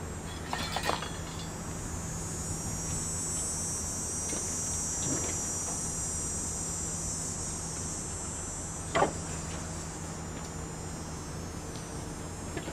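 Steady high-pitched insect chorus over a low steady hum, with a few light taps about a second in and one sharper knock about nine seconds in.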